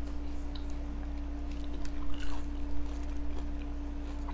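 Close-miked chewing and small wet mouth sounds of people eating fried chicken wings, with scattered faint clicks, over a steady low hum.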